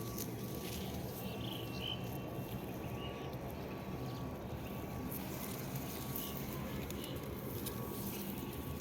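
Outdoor ambience: a steady low rumble with a few short bird chirps between about one and a half and four and a half seconds in.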